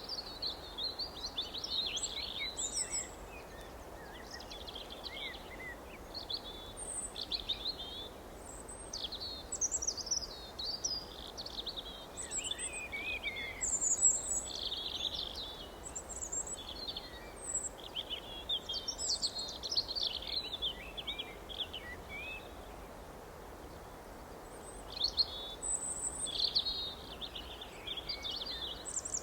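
Several songbirds chirping and singing in quick overlapping phrases, over a faint steady background hiss.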